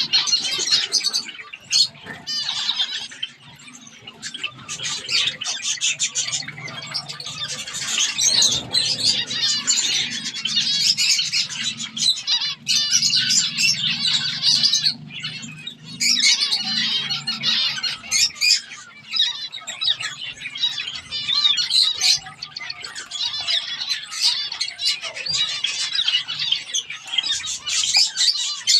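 Zebra finches calling in a dense, continuous stream of rapid, high chirps and squawks.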